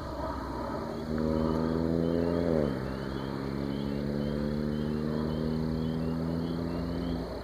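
Muffler-deleted exhaust of a turbocharged 1.8-litre four-cylinder car under acceleration. The drone climbs slowly in pitch, drops sharply about two and a half seconds in as the automatic transmission shifts up, climbs again in the next gear, and stops shortly before the end.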